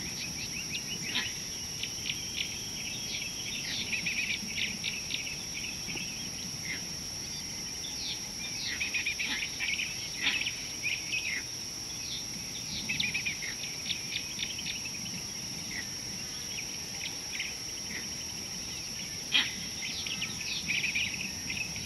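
Wild birds chirping in busy clusters of short, quick notes, with a louder sharp call near the end, over a steady high-pitched whine.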